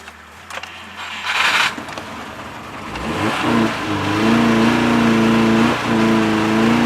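A car engine starts about three seconds in and is then revved, its pitch rising and dipping a few times as the throttle is worked to keep the rough-running engine from stalling.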